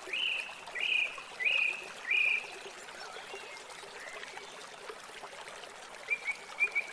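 A bird chirping: four clear chirps about two-thirds of a second apart, then a run of shorter, quicker chirps near the end, over a faint steady hiss.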